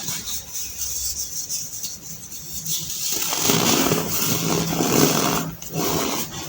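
Compressed baking soda being crushed: gritty crunching and squeaking that grows much louder about halfway through, in uneven presses.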